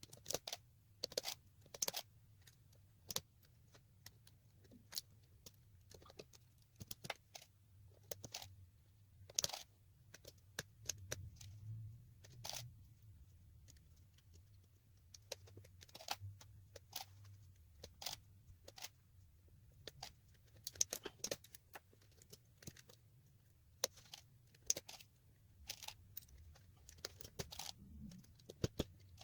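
Royal No. 5 manual typewriter's keys and typebars clacking irregularly as the machine is worked, a few sharp clicks a second with short pauses.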